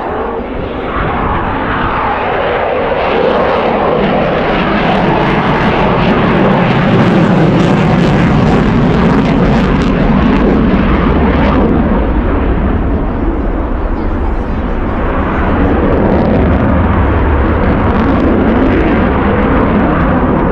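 Eurofighter Typhoon's twin jet engines during a display pass: loud, dense jet noise that builds over the first few seconds, peaks about halfway through and stays strong.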